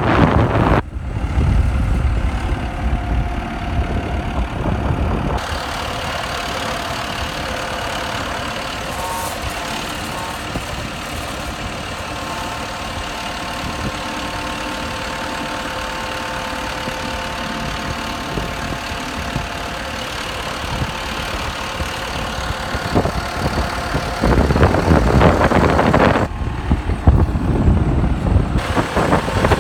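A 1994 Ford 9030 tractor's diesel engine idling steadily. Wind buffets the microphone for the first few seconds and again near the end.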